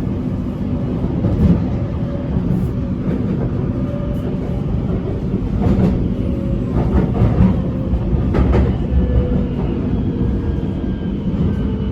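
BTS Skytrain electric train running, with a steady motor hum and rumble. Its wheels clatter over the track several times, most in the middle of the stretch.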